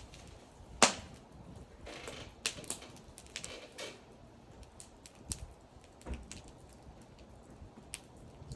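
Burning wood crackling, with irregular sharp pops and snaps. One loud pop comes about a second in, and a quicker run of crackles follows between about two and four seconds in.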